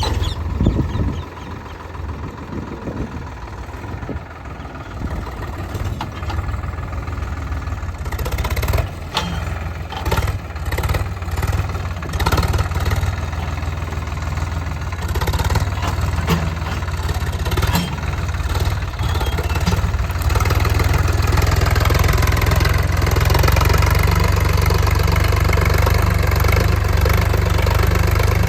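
Tractor engine running steadily, with scattered knocks and clicks through the middle; it grows louder and steadier about two-thirds of the way through.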